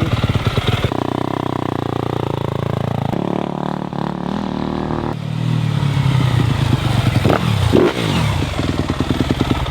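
2026 Yamaha YZ250F's 250 cc four-stroke single-cylinder engine running and being revved, its pitch rising and falling several times.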